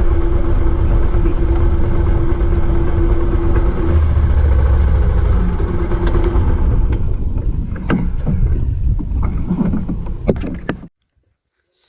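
Bajaj Pulsar 220 motorcycle's single-cylinder engine running under way, with heavy wind rush on the helmet microphone. About two-thirds in, the engine's steady note fades as the bike slows, a few clicks and knocks follow, and the sound cuts off abruptly just before the end.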